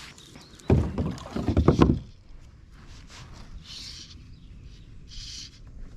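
Kayak paddle working the water: a loud, rough splashing and knocking for about a second near the start, then softer hissing strokes about every second and a half.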